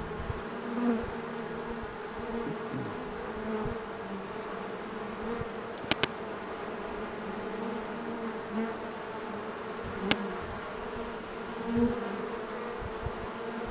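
A swarm of honey bees flying around, a steady dense buzzing hum that swells now and then as bees pass close, while the bees settle into a capture box. A sharp double click about halfway through and a single click a few seconds later.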